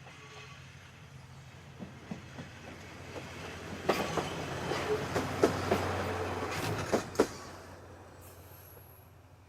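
Kominato Railway diesel railcar passing: a low engine hum and wheels clacking over rail joints. It grows louder to a peak about six seconds in, then fades away.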